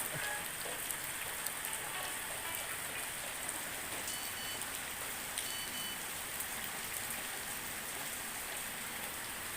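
Light drizzling rain falling steadily.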